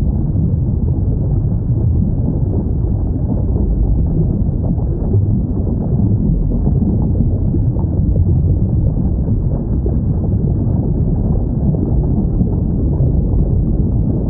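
Steady, deep underwater rumble with no distinct whale calls standing out.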